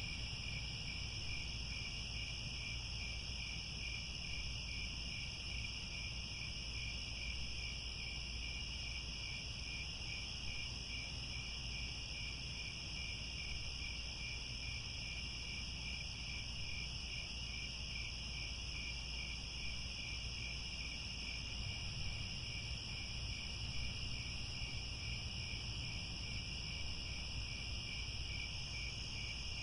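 A dense chorus of crickets chirring steadily, a high-pitched rapidly pulsing trill over a second, higher steady band, with a low steady rumble beneath.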